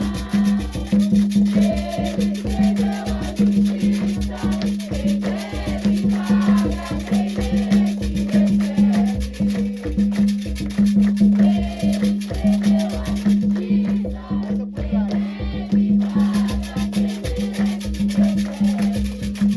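Afro-Brazilian ritual music for Xangô: drums and rattles playing a fast, steady beat, with voices singing a chant over it.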